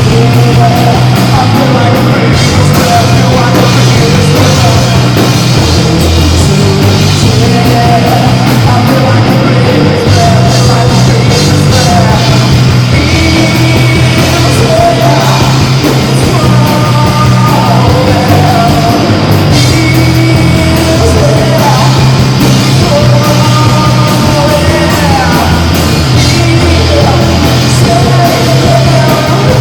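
Live rock band playing loudly, with a heavy stepping bass line under a singing voice.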